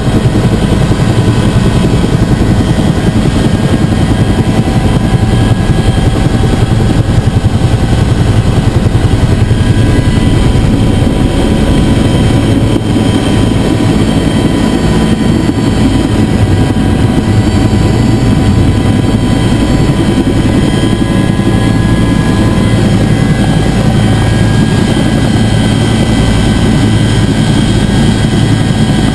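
Bell UH-1 Huey helicopter running steadily in flight: a loud, constant rotor drone with steady whining tones above it.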